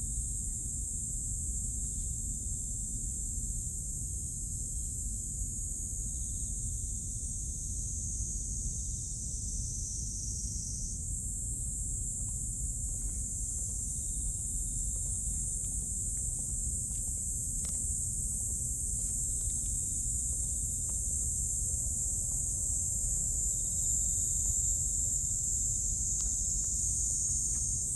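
Cicadas singing in a steady high-pitched chorus that shifts slightly higher and stronger about eleven seconds in, over a low rumble.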